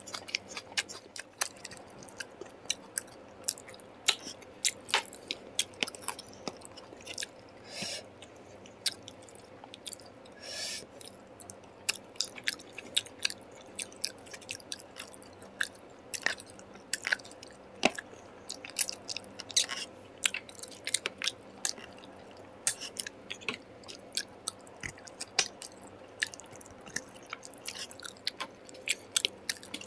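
A person chewing and eating food close to the microphone, with many quick, irregular wet clicks and smacks, and two brief hissing sucks about 8 and 10 seconds in.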